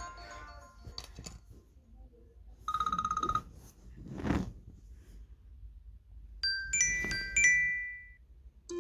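A run of short iPhone ringtone and alert-tone previews. A tinkling melody fades out, a brief fast-pulsing beep comes about three seconds in, and a whoosh follows about a second later. A few bright bell-like chimes come near the end.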